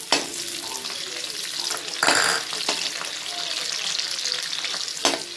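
Chopped green chillies and garlic sizzling in hot oil in a metal kadhai, with a steady hiss and a louder burst of sizzle about two seconds in. A metal slotted spoon stirs and knocks against the pan.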